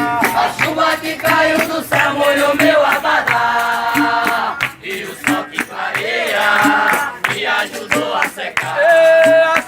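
Capoeira music: several voices singing together over a steady percussion beat.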